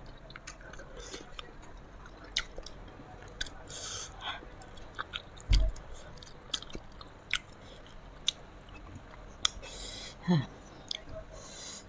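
Close-miked chewing and biting of food, with wet mouth clicks and short crunches scattered throughout. A low thump about halfway through, and a brief falling 'mm' near the end.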